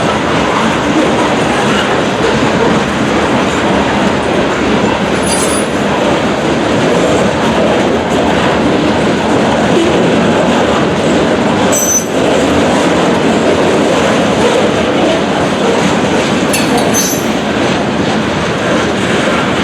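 Freight train cars rolling steadily past at close range, a continuous loud rumble and clatter of wheels on rail. Brief high wheel squeals come three times: about five seconds in, near the middle and about three-quarters through.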